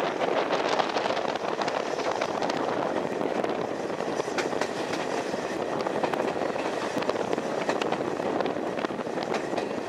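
Carriage of a steam-hauled heritage train running along the line: a steady rumble and rattle of wheels on the rails, with scattered sharp clicks.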